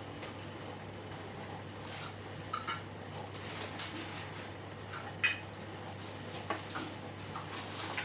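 Scattered light clinks and taps, a few sharp ones among softer ones, the loudest about five seconds in, over a steady low hum.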